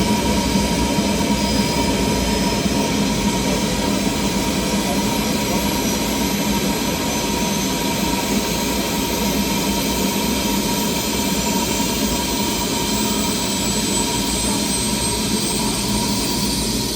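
Bell helicopter's turbine engine spooling up during its automatic start. A steady loud running sound carries a constant tone and a thin high whine that slowly climbs in pitch.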